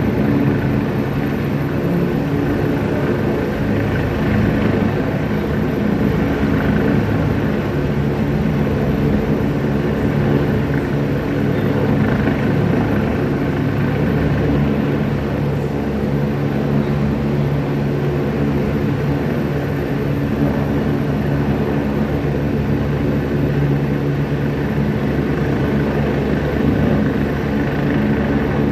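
Helicopter running steadily, a loud continuous engine and rotor drone whose pitch holds level throughout.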